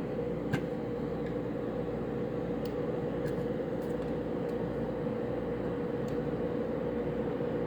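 Room air conditioner's indoor fan running with a steady hum, in heat mode before its electric heat strip has switched on.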